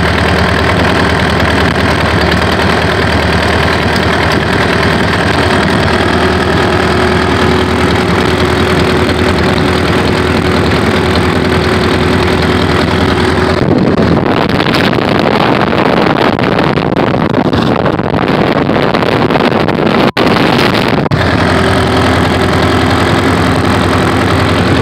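Hummel H5 ultralight aircraft engine running steadily on the ground while warming up after a start. About halfway through the sound turns rougher for several seconds, with a brief cut near the end of that stretch, then settles back to its steady running.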